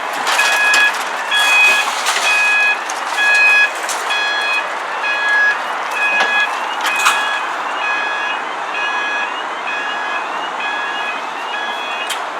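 Level crossing warning alarm sounding in repeated electronic beeps, a little under two a second. About four seconds in, the beeps change to a sliding tone. There is one sharp knock about seven seconds in.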